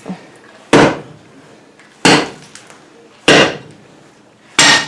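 A metal tool striking an old basement concrete floor to break it up: four hard hits about 1.3 seconds apart, each ringing briefly.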